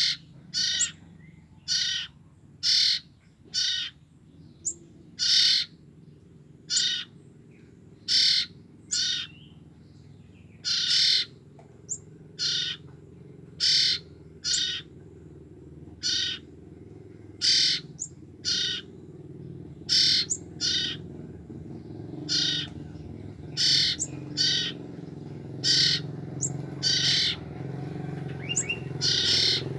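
Young common iora (cipoh) chicks calling: short, sharp, high calls repeated about once a second, a fledgling's call that draws in the parent bird. Under them runs a low steady hum that grows louder near the end.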